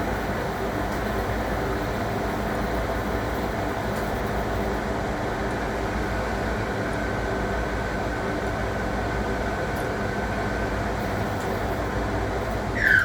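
1961 AEG Lavamat Noris washing machine running with a steady mechanical rumble and a low hum. Right at the end a short, loud gliding squeak is heard, and the running noise then drops away, leaving the hum.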